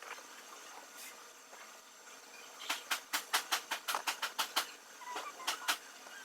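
A rapid run of about a dozen sharp clicks, some six a second, starting about two and a half seconds in, then two more clicks near the end, over a faint steady hiss.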